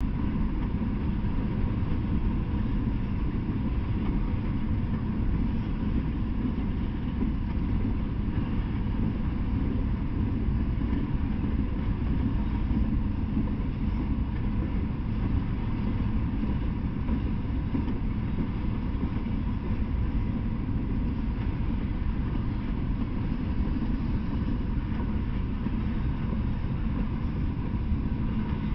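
Freight train of open-top hopper cars rolling slowly past on the rails, a steady low rumble of wheels and cars with no horn or sudden clanks.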